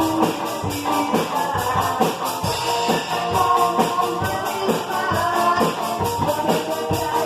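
Rock band playing, with drums, guitar and a fast, steady tick of high percussion; no singing.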